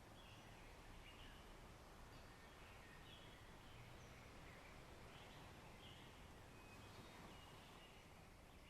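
Faint outdoor nature ambience: small birds chirping now and then over a steady background hiss.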